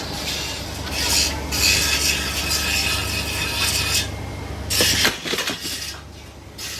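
Machinery running with a steady low hum under scraping, rasping noise, with a steady high whine for a couple of seconds in the middle. The hum cuts out about five seconds in, after a few sharp knocks.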